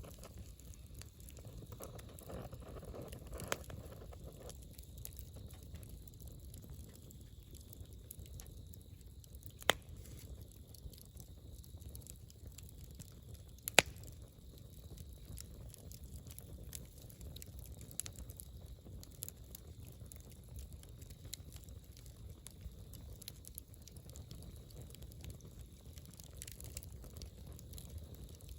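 Wood campfire burning with a steady low rumble and constant small crackles, broken by a few sharp pops; the two loudest come about 10 and 14 seconds in.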